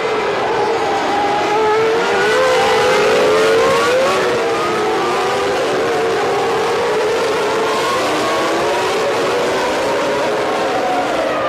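1995 Formula One car engines running at high revs. The engine note's pitch dips and climbs and dips again as the cars brake and accelerate, rising again near the end.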